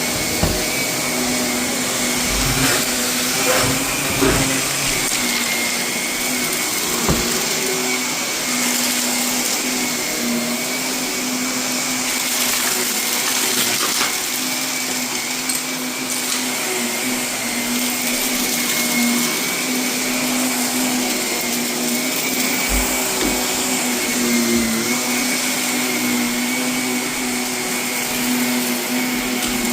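Vacuum cleaner running steadily over carpet, with scattered short crackles and ticks as it sucks up renovation debris: the crunchy pick-up of a heavily soiled carpet.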